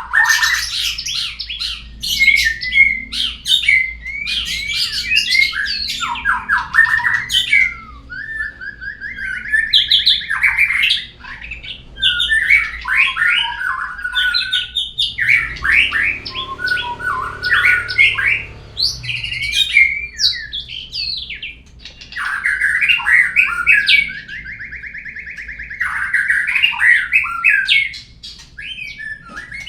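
Murai batu (white-rumped shama) song used as a lure to get a murai to sing: long varied phrases of whistles, rapid trills and harsh squawky notes, broken by a few short pauses.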